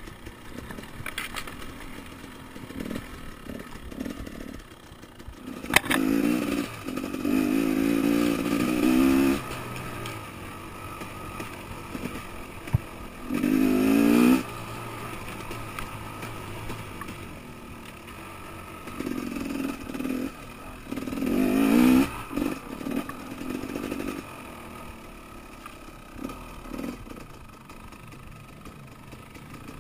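Enduro dirt bike engine, heard from on the bike, opening up in three main bursts of throttle, about six, thirteen and twenty seconds in, each rising in pitch, with quieter running between them. Bumps and clatter of the bike over the rough trail come through as sharp knocks.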